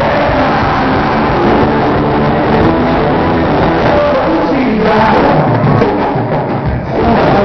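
Live band music played loud, with a rock sound.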